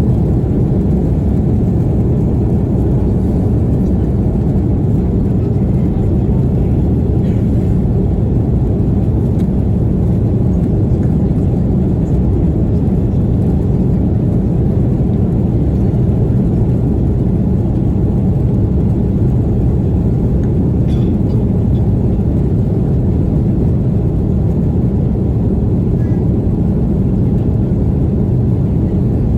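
Steady low rumble of jet engines and airflow inside the cabin of an Airbus A330-300 airliner, even and unchanging throughout.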